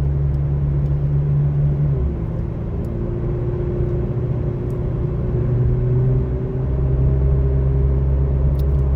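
McLaren Artura's twin-turbo V6 hybrid drivetrain running at low speed, heard from inside the cabin. Its low drone drops away about two seconds in while a faint tone slowly rises, and the drone comes back about two thirds of the way through.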